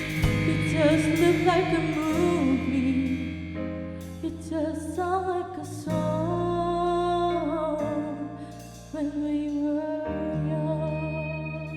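Live band music: a singer's melody over sustained keyboard and bass chords.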